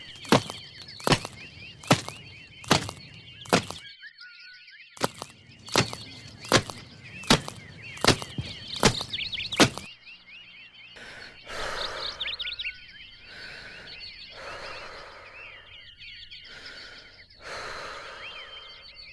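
Heavy footsteps thud at a walking pace, about four every three seconds, pausing briefly about four seconds in, while birds chirp in the forest. About ten seconds in the steps stop, and a series of softer swishing noise bursts, each about a second long, follows.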